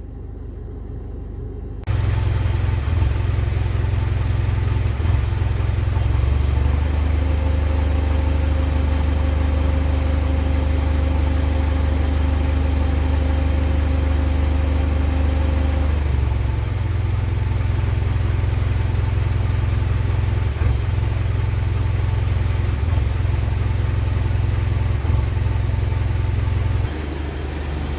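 2010 Mitsubishi Pajero NT engine running as a steady low rumble, which gets heavier for a stretch in the middle. This is the car's fault, an intermittent misfire and flat spot, as the owner presents it.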